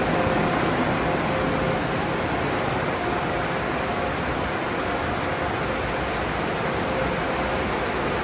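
Steady rushing noise of car wash tunnel machinery, an even hiss with a faint hum that comes and goes.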